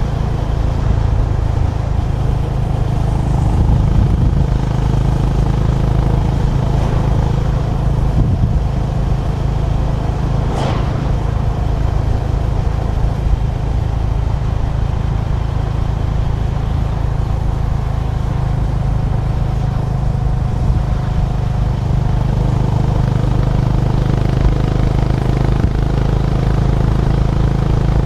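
Honda GB350's air-cooled single-cylinder engine running at a steady cruise on the road, heard with heavy low wind rumble. A brief sharp click comes about ten seconds in.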